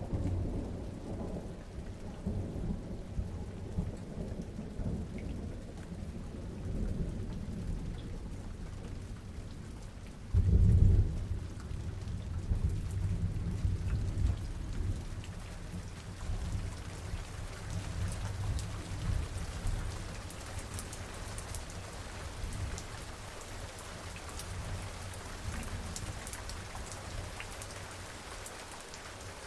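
Steady rain falling during a thunderstorm, with rolling thunder rumbling underneath. About ten seconds in, a loud thunderclap breaks and rumbles on for several seconds before fading, leaving the rain with distinct drops pattering.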